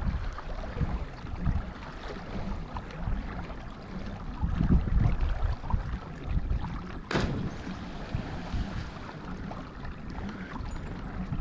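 Wind rumbling in gusts on the microphone over water lapping against a kayak, with one sharp knock about seven seconds in.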